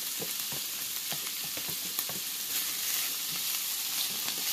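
Stir-fry vegetables sizzling in a hot frying pan of olive oil as they are poured in, with scattered clicks and scrapes as they tumble and are stirred with a wooden spoon.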